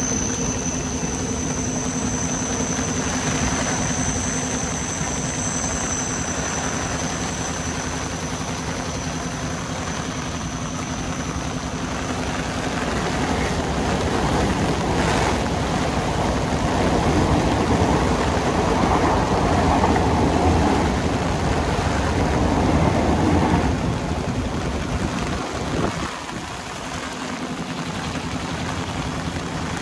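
Steady rain, with a Mumbai suburban electric local train running on the tracks below: its sound swells for several seconds in the middle, then fades. A steady hum and a high whine sound in the first few seconds.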